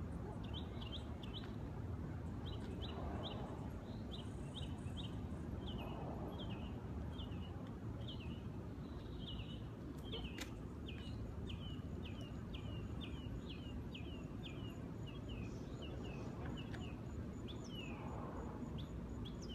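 A bird chirping over and over, short falling chirps about two a second, over a steady low outdoor rumble.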